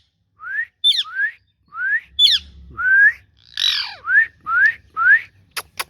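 Green ringneck parrot calling: a run of short rising whistles, about eight of them, mixed with sharp high chirps and one harsher squawk near the middle.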